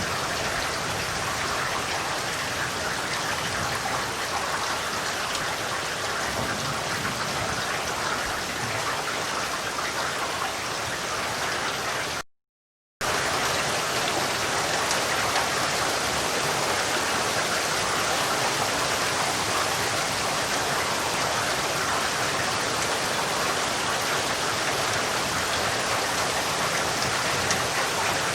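Steady rain falling, a dense, even hiss of drops. The sound cuts out completely for under a second about twelve seconds in, then resumes a little louder.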